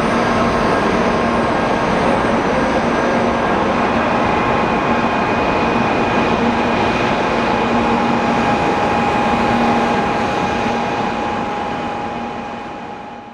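JR West 500 series Shinkansen pulling away from the platform: a steady rush of running and air noise with a few steady tones over it. The sound fades out over the last few seconds.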